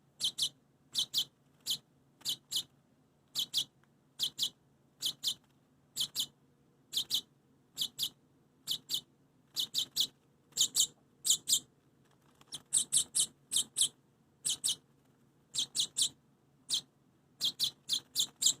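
A baby bird chirping over and over: short, high, sharp chirps, single or in quick pairs and triples, one to two groups a second.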